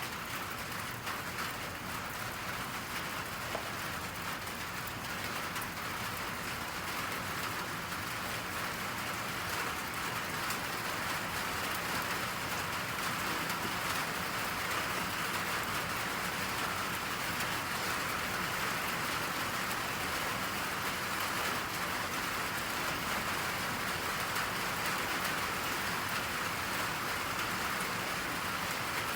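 Steady rain falling, a dense even hiss that grows slightly louder about a third of the way in.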